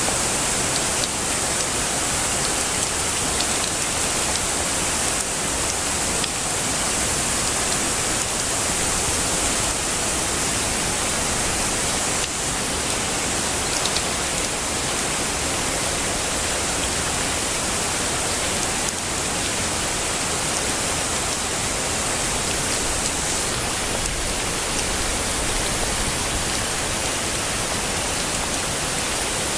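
Heavy rain falling steadily: an even, dense hiss, brightest in the high end, with a few faint sharper drop ticks.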